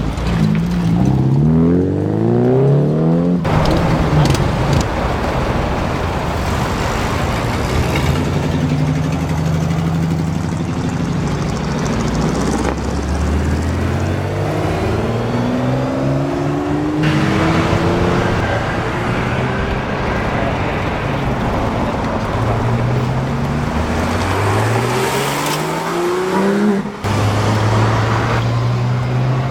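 Supercar engines accelerating hard, several cars in turn, each with a loud rising rev before the sound breaks off sharply.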